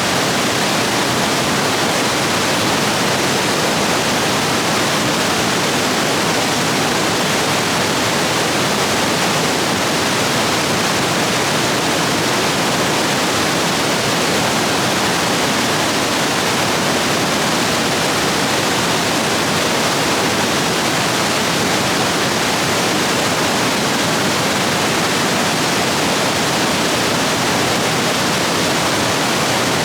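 Stream rapids rushing steadily, the water running high after heavy rain.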